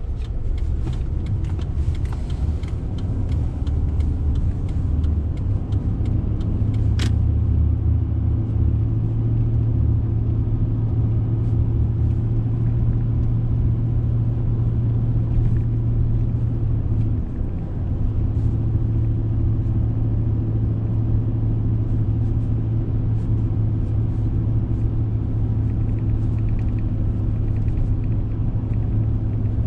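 Pickup truck with a 5.4-litre engine driving on a rough road, heard from inside the cab: a steady engine and road drone with light rattling, and one sharp click about seven seconds in.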